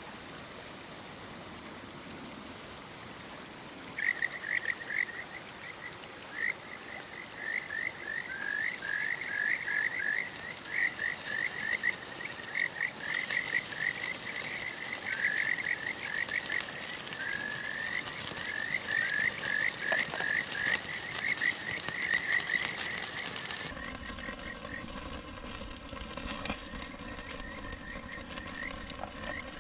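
A frog calling in a long series of quick rising chirps over the steady rush of a mountain stream; the calls thin out after an abrupt change in the background about three-quarters of the way through.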